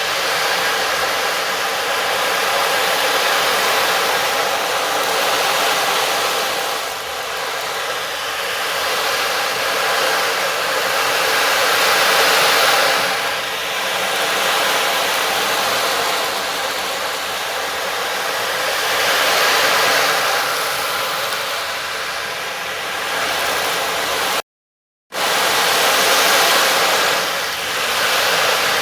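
A steady rushing noise that swells and eases roughly every six seconds, with faint held tones beneath it. The sound cuts out completely for about half a second near the end.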